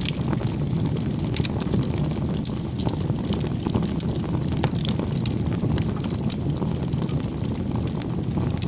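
Crackling campfire: a steady low rumble of burning wood with frequent sharp, irregular crackles and pops.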